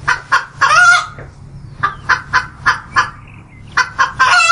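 Domestic hen clucking: a run of short clucks with two longer, drawn-out calls, one about a second in and one near the end.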